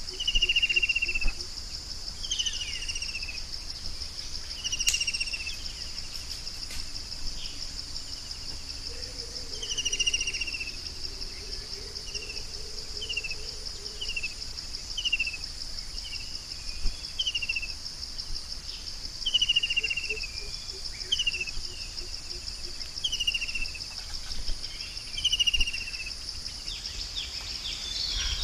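A forest bird repeating short downslurred call notes every second or two, over a steady high-pitched insect trill.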